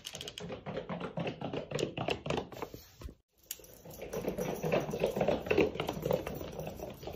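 A cat's paws and claws pattering and clicking fast on a hard wooden floor as it runs. The patter comes in two stretches, broken by a short silence about three seconds in.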